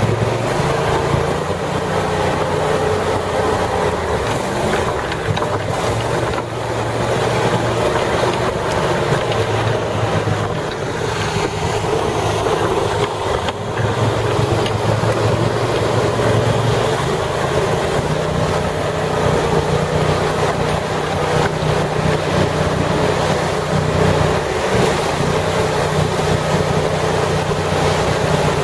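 Engine of an amphibious six-wheel ATV running steadily while it drives through floodwater, its pitch stepping up and down as the throttle changes. A constant rush of water and wind noise runs under it.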